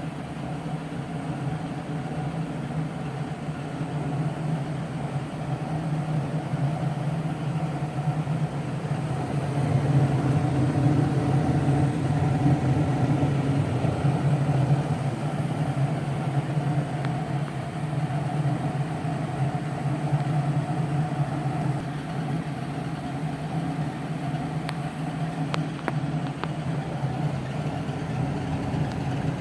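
Gas-burner HVAC furnace running: a steady low hum and rumble that swells a little about ten seconds in.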